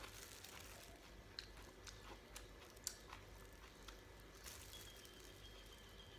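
Faint crunching and chewing as a bite of fried pork cutlet wrapped in leafy salad is eaten, with a few soft sharp clicks.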